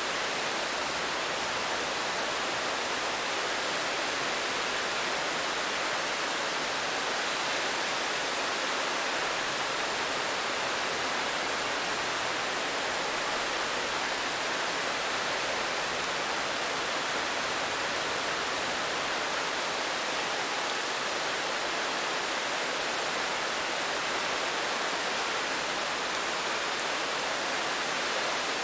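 Steady, even rain, a dense hiss with no single drops standing out.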